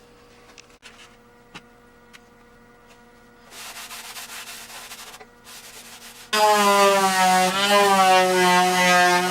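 Scratchy rubbing on rusty sheet steel, then about six seconds in a power tool starts: a loud whine whose pitch wavers as it bears on the metal during rust removal.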